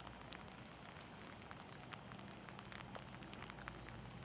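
Faint, steady rain falling on a lake surface, with many individual raindrops ticking close by at irregular moments.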